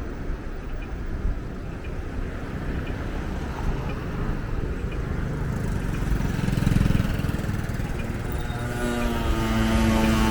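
City street ambience: traffic rumbling past, building to a peak about two-thirds of the way through, with faint regular ticks of footsteps. Near the end a steady pitched tone with several overtones starts and holds.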